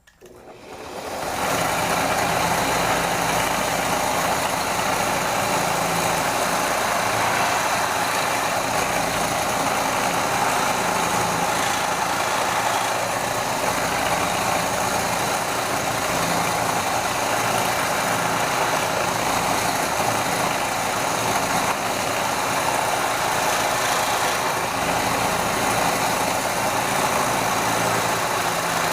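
Electric power-tool motor starting and spinning up over about a second and a half, then running steadily with a constant whine.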